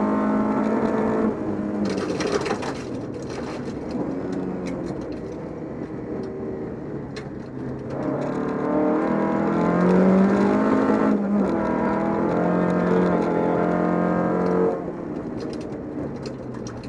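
Volvo 242 rally car's engine at speed on a gravel stage. The engine eases off about a second in and runs lower with scattered clicks and rattles. From about 8 s the revs climb again under power, and the engine drops off suddenly near the end.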